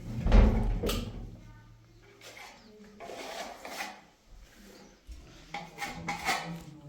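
Irregular scraping and rubbing with knocks, the loudest a heavy thump about half a second in.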